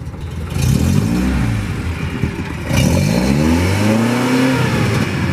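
Classic car's carbureted engine, fitted with Solex carburetors, revved twice: each time the pitch climbs and falls back, and the second rev is held high for longer.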